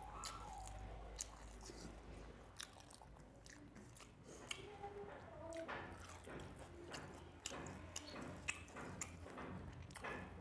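Close-miked chewing and lip smacking on a mouthful of rice and curry, a run of small wet clicks that grows busier in the second half, with fingers squishing rice against a steel plate.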